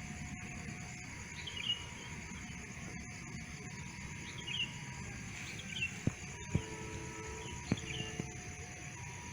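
Outdoor ambience with a steady low rumble and several short bird chirps, spread a second or two apart. A few sharp clicks come about two-thirds of the way through.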